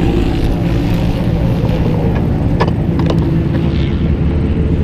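Race car engine running steadily at low revs, with a few sharp clicks partway through.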